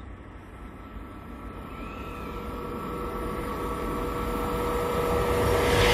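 KTX high-speed train approaching inside the tunnel: a rumble with a steady hum, growing steadily louder as the train nears the portal.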